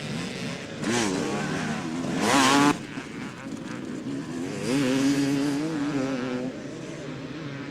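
Motocross motorcycles revving as they ride the track. The engine pitch rises about a second in, and the loudest burst of revs comes around two and a half seconds in and cuts off sharply. Another bike then holds steady revs for nearly two seconds.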